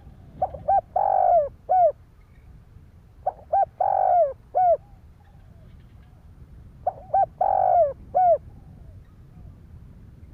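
Spotted dove cooing: three identical phrases about three seconds apart, each two short notes, one longer falling coo and a short closing note, the call used as a decoy to draw in wild doves.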